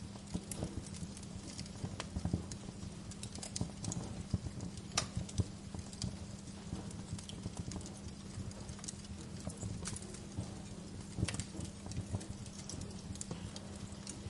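Wood fire crackling in a fireplace: irregular sharp pops and snaps, a few louder ones around two, five and eleven seconds in, over a low rumble and a steady low hum.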